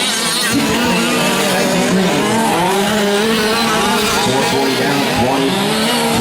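A pack of 1/5-scale gas RC trucks racing, their small two-stroke engines buzzing at high pitch and revving up and down over one another.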